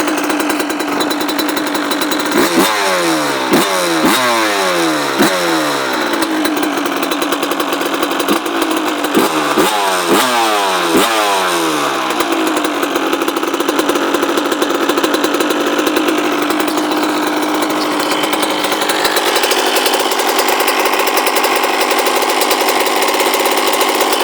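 1999 Suzuki RM80's single-cylinder two-stroke engine idling, cold-started without the choke, with two runs of quick throttle blips, each rev rising and falling back, a few seconds in and again near the middle. The cold engine is bogging.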